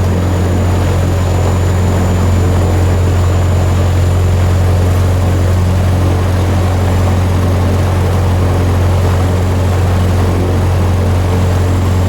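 Cessna 150's four-cylinder Continental O-200 engine and propeller running steadily at low power on the ground after start-up, a constant drone with a strong low hum, heard from inside the cockpit.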